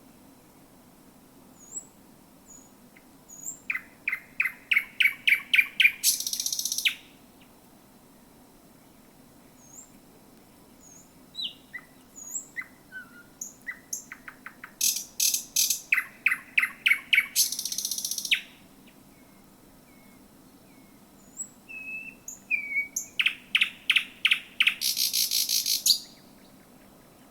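Thrush nightingale singing close up: three song phrases, each opening with soft high notes, building into a run of loud, rapid repeated notes and ending in a harsh rattle, with pauses of a few seconds between.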